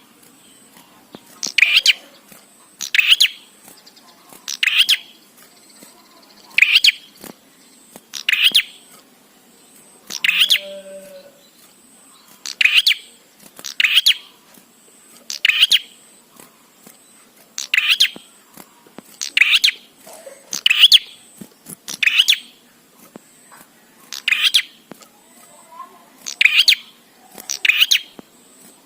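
Prenjak (prinia) calling: a short, sharp burst of high chirps repeated evenly about every one and a half seconds, with a faint steady high whine beneath.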